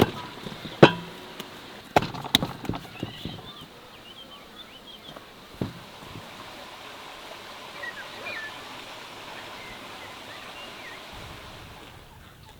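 Small birds chirping over a steady outdoor background, broken by a few sharp knocks. The loudest knock comes about a second in, a quick cluster follows around two seconds in, and one more comes near the middle.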